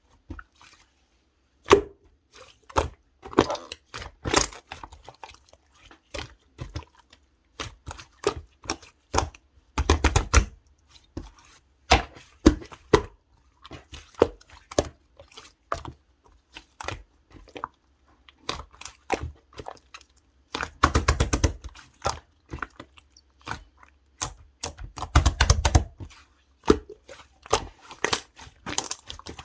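Clay-mixed slime being squished, pressed and stretched by hand: a run of sticky clicks and small pops, with three denser crackling bursts.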